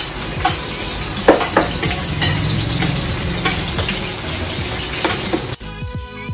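Chopped onion and garlic sizzling in hot olive oil in a stainless-steel pot, with a metal spoon scraping and clinking as they are stirred. About five and a half seconds in, the sizzle cuts off and background music takes over.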